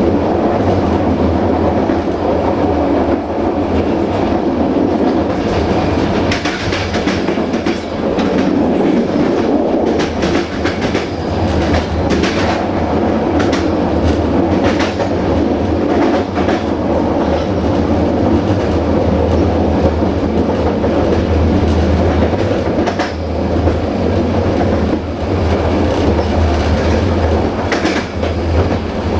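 Passenger train carriage running over jointed track: a steady rumble of wheels on rail, with repeated clicks as the wheels cross rail joints.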